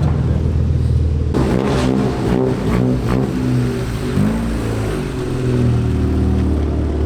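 Modified car's exhaust rumbling at low speed, with throttle blips that rise and fall in pitch between about one and four seconds in, and a few sharp crackles among them.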